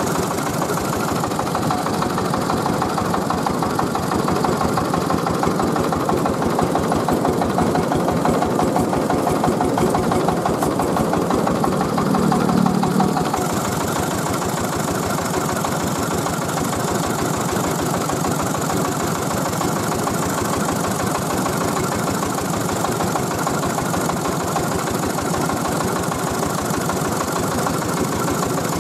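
The Tiger 24 hp diesel engine of a mobile rice mill running steadily, with a fast, even firing beat. It is slightly louder through the first half and swells briefly just before halfway, then settles back to an even run.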